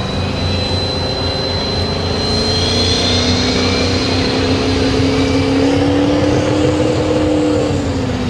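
Ford Power Stroke diesel pulling truck under full load on the pull, its engine pitch climbing slowly and then dropping near the end, with a high steady whine over it. The engine is not running clean, which the announcer puts down to its water injection coming on too early.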